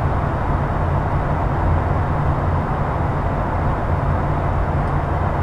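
Steady, loud jet engine and airflow noise heard inside the cabin of a Boeing 737-800, a low drone from its CFM56 turbofans.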